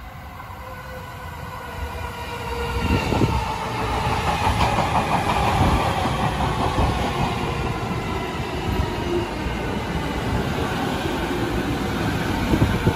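Electric commuter train pulling into the platform: wheels rumble on the rails with a few clacks, growing louder over the first few seconds. A motor whine falls slowly in pitch as the train brakes.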